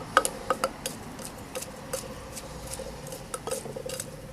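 Pestle knocking in a Thai krok mortar while pounding chili paste (nam prik): quick, uneven knocks, about four or five a second, each with a short ringing note, the loudest in the first second.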